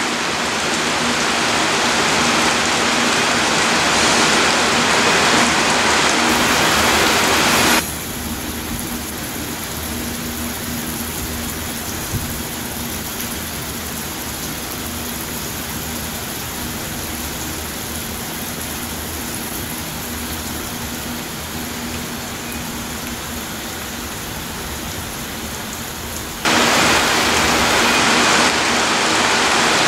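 Rain and the steady rumble of a long train of freight hopper cars rolling past. The sound drops suddenly to a quieter wash about 8 seconds in, then returns to full level about 26 seconds in.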